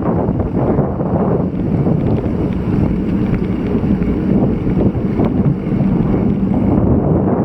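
Strong typhoon wind buffeting the microphone of a Shimano CM-2000 action camera: a loud, steady low rumble.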